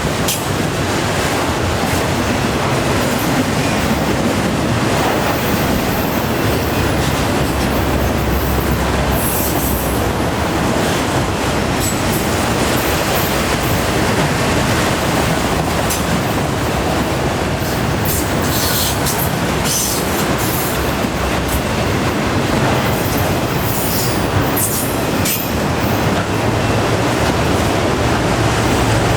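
Long freight train's cars rolling past at about 34 mph: a steady rumble and clatter of steel wheels on rail, with a few brief high wheel squeals.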